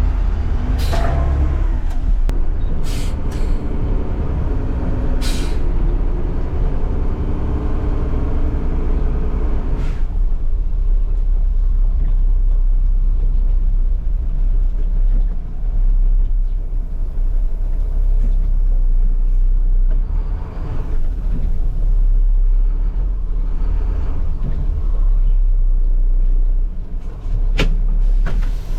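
Garbage truck running with a deep, steady rumble, a pitched drone over it for the first ten seconds. Short, sharp air hisses come about a second in, around three and five seconds in, and once more near the end.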